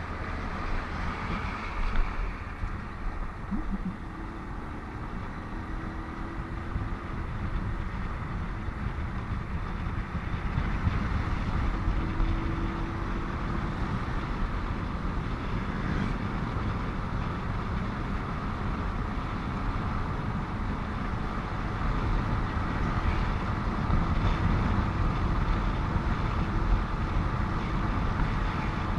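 Motorcycle ridden along a highway: the engine runs steadily under continuous road and wind noise.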